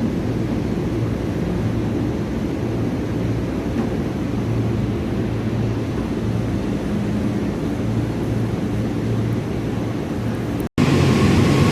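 Diesel-hauled passenger train running through the station: a steady low locomotive hum with a rumble underneath. The sound cuts out for an instant near the end and comes back louder.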